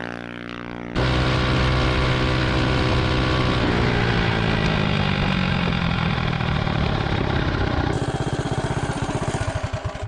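Predator 212 Ghost single-cylinder engine on a stage 2 mini bike running at high revs under load, with a brief dip in the first second. From about four seconds in, the pitch slowly falls as the bike winds down.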